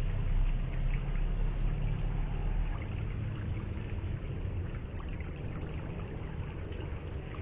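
Steady rush of flowing river water, with the low rumble of a passing vehicle fading away over the first few seconds.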